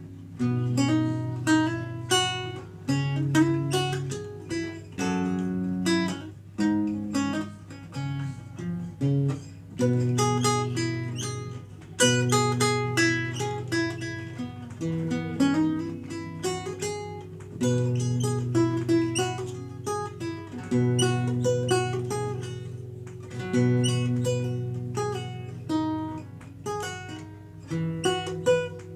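Renaissance lute being played: a continuous passage of plucked notes and chords with a sustained bass line under the melody.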